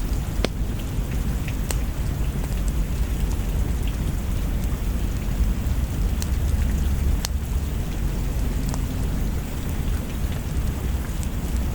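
Rain and fireplace ambience: steady rain with a deep, constant low rumble, and scattered sharp pops and crackles at irregular intervals.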